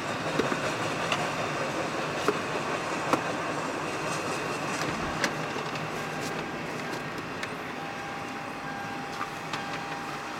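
A freight train of autorack cars rolling past at speed, its wheels making a steady rumble on the rails with scattered sharp clicks.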